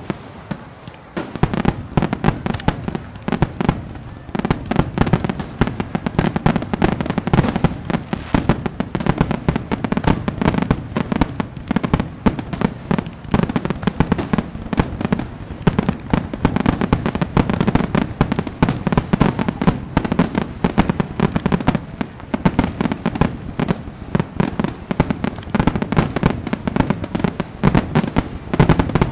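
Fireworks going off in a dense, continuous barrage of rapid crackling pops and bangs. The barrage thickens about a second in.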